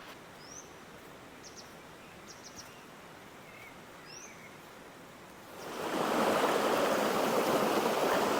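A few faint, short bird chirps over a quiet woodland background, then about five and a half seconds in, the steady rushing of a fast-flowing stream comes in loud.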